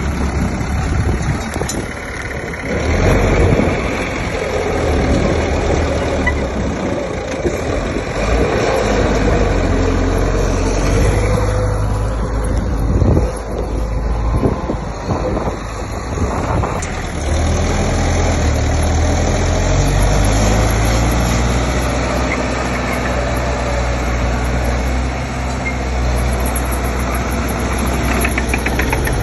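Heavy construction machine's diesel engine running, its load and pitch shifting as it works.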